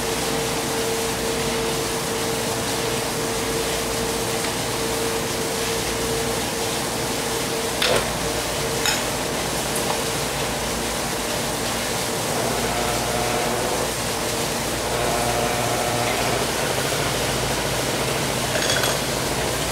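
Small machine running steadily with a steady tone, which fades out about ten seconds in. A sharp knock comes about eight seconds in, and a wavering higher tone from about twelve seconds.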